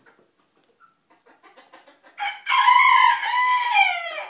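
Rooster crowing: one long call about two seconds in, held for around two seconds and falling in pitch at the end, after a couple of seconds of soft clucking.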